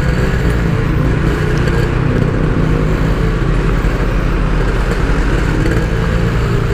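Yamaha RX King's 135 cc single-cylinder two-stroke engine running at steady, unchanging revs through its aftermarket Packing Power 'standart belek' exhaust.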